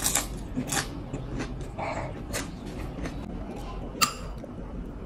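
Close-up chewing of a crispy fried bean-sprout spring roll, with several short crunches and wet mouth sounds. About four seconds in comes one sharp clink of a metal spoon against the glass sauce bowl.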